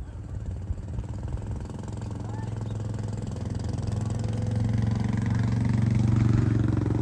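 Airbus A321neo's Pratt & Whitney PW1100G geared turbofan engines running, a low steady hum that grows steadily louder over several seconds and peaks near the end.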